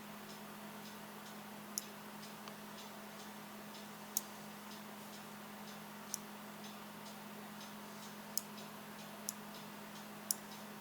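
Faint, regular ticking a few times a second over a steady low hum, with a handful of sharper clicks at uneven intervals.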